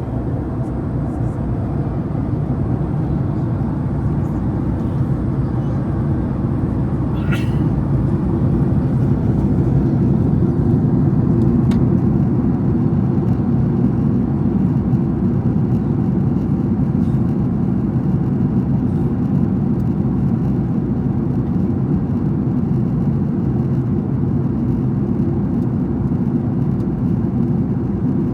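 Steady cabin noise inside a Boeing 767-300ER airliner in flight, a constant low rumble of engines and airflow. Two brief faint clicks come about a third of the way in and again a few seconds later.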